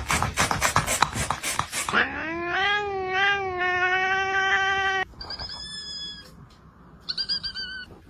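Cats vocalizing: a quick run of short, sharp sounds, then one long, drawn-out yowl lasting about three seconds, then a few short, high-pitched squeaky calls near the end.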